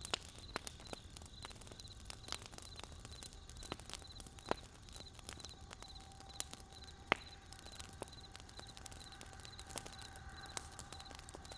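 Wood fire crackling, with irregular sharp pops; the loudest comes about 7 s in. Beneath it a faint, high chirp repeats evenly in small groups throughout, and a faint held tone joins about halfway through.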